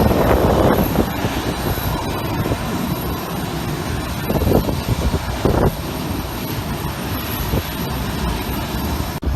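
Jet airliner engines running at takeoff power: a continuous rumbling noise, loudest at the start and then holding fairly steady.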